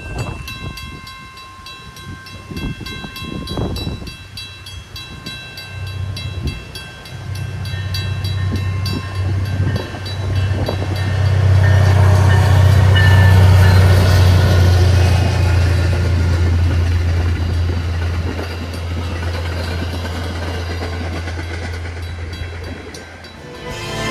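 Diesel locomotive-hauled train going by: a low engine rumble builds from about six seconds in, is loudest around halfway with heavy rolling noise, then holds and drops away near the end.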